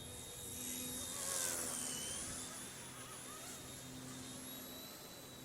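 Small electric RC scale helicopter (RC Era C138 Bell 206) flying with a steady high-pitched motor whine. The whine grows louder about a second in, then dips briefly in pitch around two seconds in and comes back up.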